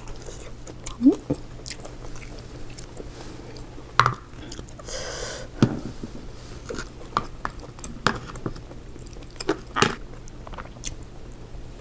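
Close-miked chewing and biting of seafood, with sharp clicks and cracks at irregular moments.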